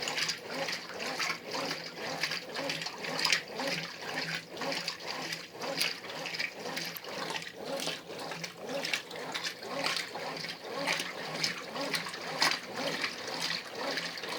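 Brastemp Ative 11 kg top-loading washer agitating a load on its heavy cycle with turbo agitation: water and clothes slosh in the drum, swelling in a surge about once a second.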